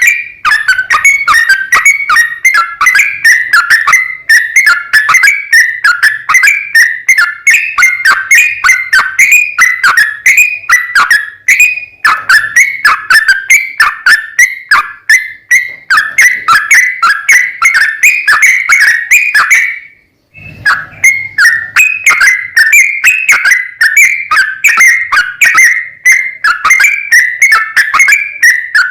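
Yellow-vented bulbul singing a long, rapid run of short chirping notes, several a second, with a brief break about two-thirds of the way through: the fast 'ropel' song used as lure audio to set caged bulbuls singing.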